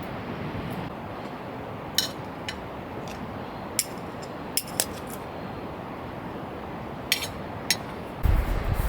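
Scattered light clinks and clicks of small hard objects being handled, over a steady hiss. Near the end, a low rumble of wind buffeting comes in.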